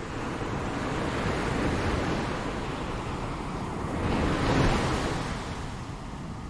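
Ocean waves surging and breaking, the wash swelling to its loudest a little past the middle and then easing off.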